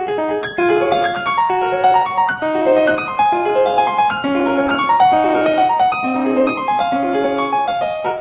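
Background piano music: a run of quick, clearly separated notes with a steady pulse.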